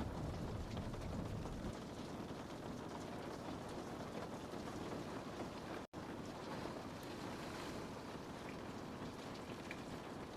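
Rain on a window pane: a steady hiss with scattered faint drop ticks. A deeper rumble under it eases off early, and the sound cuts out completely for a split second about six seconds in.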